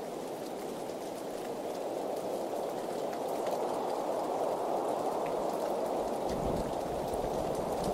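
Steady heavy rainfall, a dense even wash of drops that grows louder a couple of seconds in. A low rumble joins underneath near the end.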